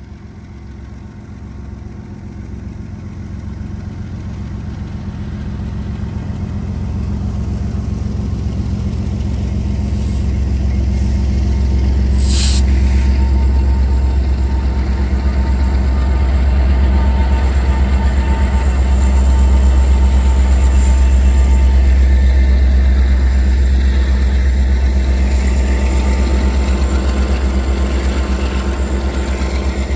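Diesel locomotives of a Union Pacific freight train passing close by, their engines' low drone swelling over the first dozen seconds as the lead units go past, then the train's freight cars rolling by. A short sharp high-pitched noise comes about twelve seconds in.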